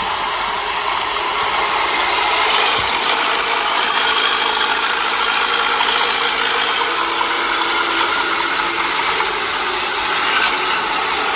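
Bulldozer running, its diesel engine and steel crawler tracks making a steady mechanical rattle.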